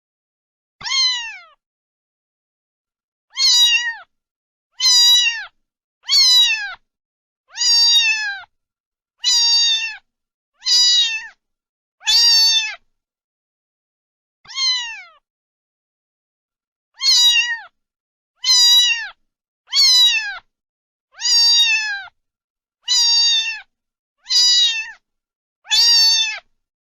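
Domestic cat meowing over and over, about sixteen near-identical calls that each fall in pitch, with dead silence between them.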